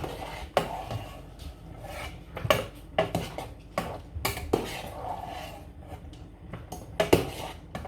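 Pots and metal utensils clattering and knocking in a kitchen as boiled chicken feet are handled, with irregular sharp clinks, the loudest about seven seconds in.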